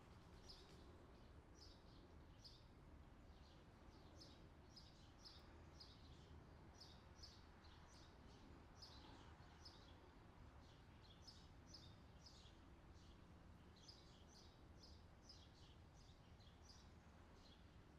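Faint outdoor summer ambience recording: small birds chirping over and over in quick short calls, over a low steady background rumble.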